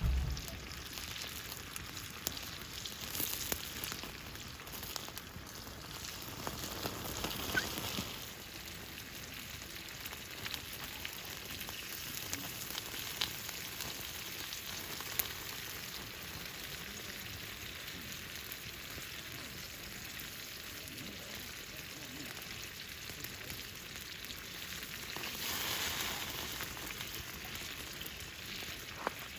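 Food sizzling in hot oil in a pan, a steady hiss with scattered small pops and crackles that swells a few times.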